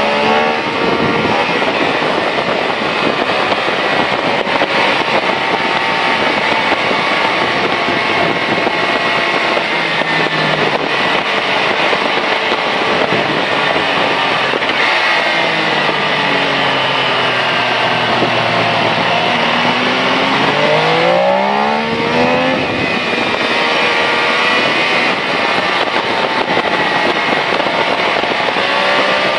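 MV Agusta Rivale 800's three-cylinder engine running on the move over steady wind noise. Its note falls as the bike slows, then rises quickly as it accelerates about 21 seconds in.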